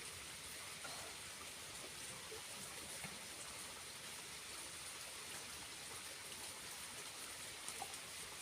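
Steady rush of falling water from a small waterfall, with a few faint ticks.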